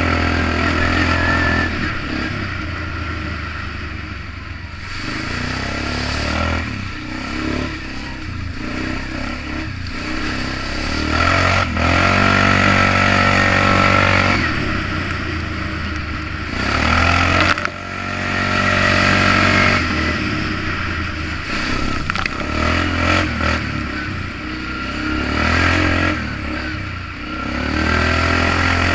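Polaris Magnum 425 ATV's single-cylinder four-stroke engine, breathing through a DG Performance RCM-II aftermarket muffler, revving up and easing off over and over while being ridden. There are a couple of sharp knocks along the way.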